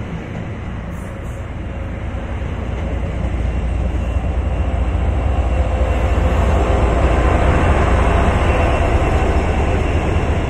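MARC commuter train passing close by at a platform: bilevel coaches rolling past with a steady rumble. The rumble builds from about three seconds in and is loudest near the end, as the diesel locomotives come alongside.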